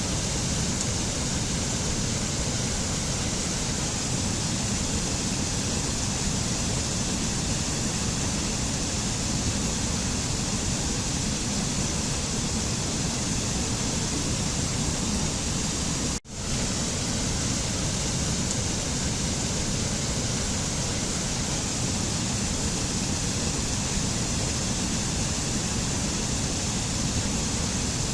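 Waterfall: a steady, even rush of falling water, with a momentary break in the sound about sixteen seconds in.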